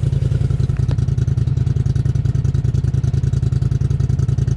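ATV engine running steadily, with an even, rapid beat and no change in speed.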